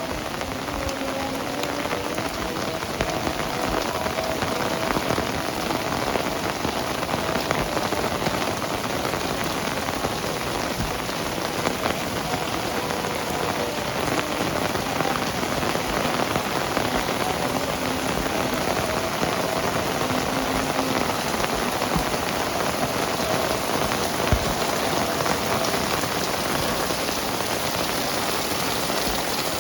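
Heavy rain falling steadily on hard surfaces, a dense even hiss, with one sharp knock about two-thirds of the way through.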